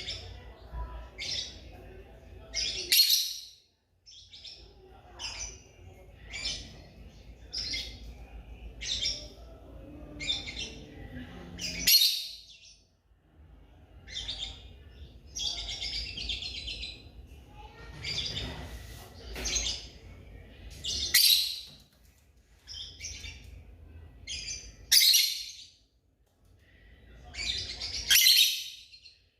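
Lovebirds chirping: sharp, shrill calls repeated about once a second, with a few louder ones standing out.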